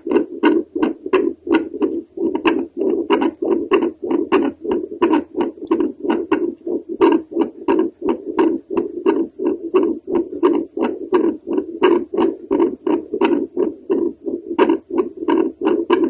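Adult heartbeat through a handheld home fetal doppler held over the tricuspid valve. It comes as a fast, unbroken run of pulsing whooshes, each with a sharp click.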